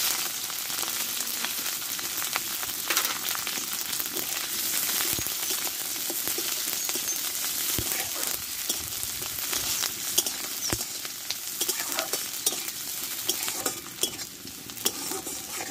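Sliced onion and split green chillies sizzling in hot mustard oil in a metal kadai, with a metal spatula scraping and knocking against the pan as they are stirred. The sizzle comes up at once as they go into the oil and eases slightly near the end.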